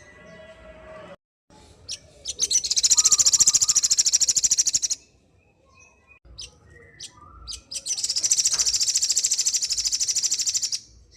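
Sogon bird singing: two long, very fast, high trills of about two and a half seconds each, the second about three seconds after the first, with a few short separate notes between them.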